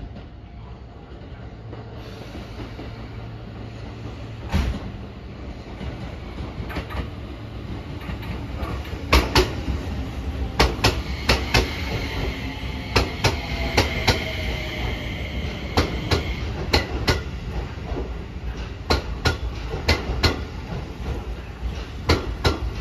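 Keio new 5000 series electric train running along a station platform: a rumble builds as it approaches, then the wheels clack over rail joints in irregular clusters. A steady high whine sounds for several seconds in the middle.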